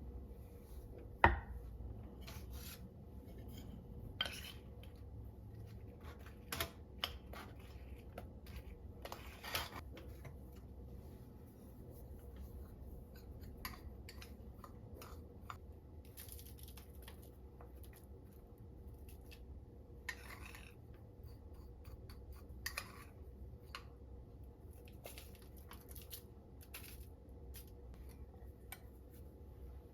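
Kitchen handling sounds: scattered light clicks and knocks of utensils and dishes, one sharper knock about a second in, and a few short scraping or rustling sounds.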